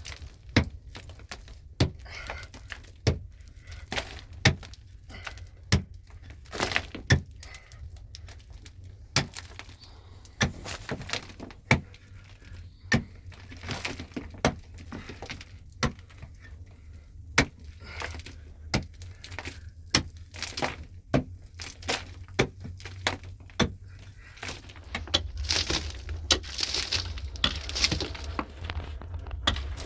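Irregular sharp knocks and cracks, one every second or so, some loud, as hard material is struck and broken by hand, with a rustling, scraping stretch near the end.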